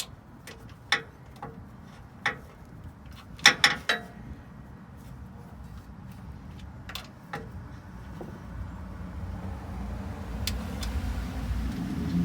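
A series of sharp clicks and knocks, a cluster of the loudest about three and a half seconds in. Then a low engine rumble builds over the last few seconds.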